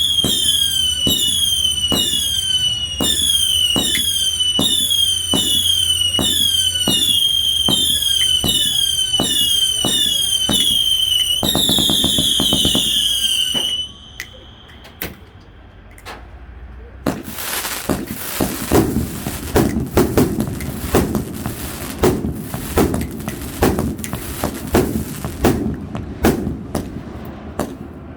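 A 259-shot firework cake firing. First comes a steady run of whistling shots, about two a second, each a falling whistle. Near the halfway point a rapid volley of many whistles follows, then a brief lull, then a long stretch of dense crackling and popping reports.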